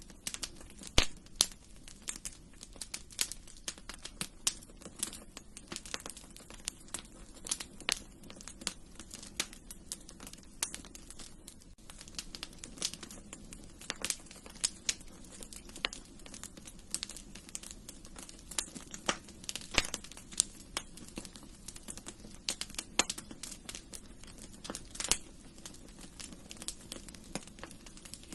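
Wood fire crackling in a fireplace: irregular sharp pops and snaps, several a second and varying in strength, over a steady low hiss of burning.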